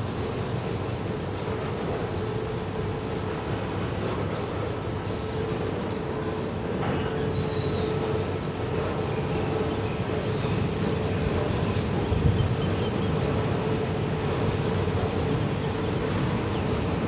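Container freight wagons rolling slowly past: a steady rumble and rattle of steel wheels on rails, with a steady tone under it, growing a little louder partway through.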